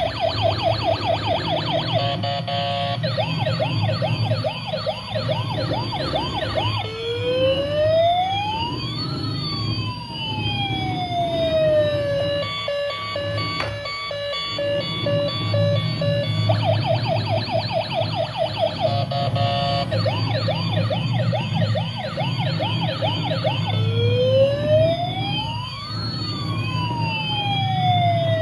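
Electronic siren of a toy emergency vehicle. It cycles through a fast warbling yelp, one slow rising-and-falling wail and a run of short beeps, then starts the cycle again.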